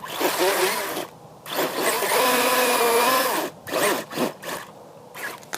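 Electric motor and gears of a radio-controlled truck whining under throttle, in two bursts with pitch rising and falling as the throttle changes, the second held for about two seconds.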